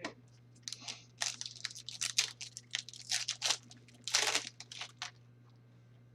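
Trading cards and their plastic packaging being handled: a quick run of short, scratchy crinkling and rustling sounds, loudest about four seconds in, then stopping about a second before the end.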